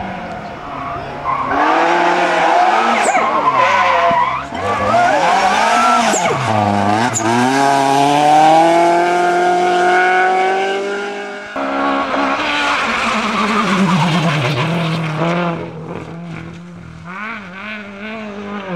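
Race car engine revving hard through gear changes, its pitch dropping twice and then climbing steadily for several seconds before cutting off abruptly. Tyres skid, and the engine settles back to a lower, steadier note near the end.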